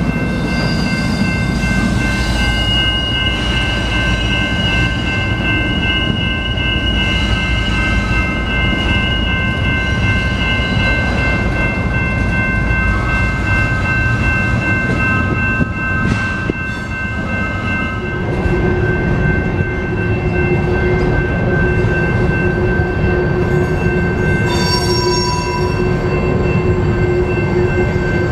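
Freight train rolling past: the diesel locomotives rumble by first, then covered hopper cars follow with steady wheel-on-rail noise and high, thin squealing tones from the wheels. A lower steady squeal joins about two-thirds of the way in.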